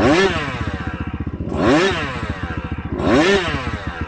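Yamaha YZ125X two-stroke single-cylinder dirt bike engine revved in three quick throttle blips, each rising sharply in pitch and dropping back to a rough idle.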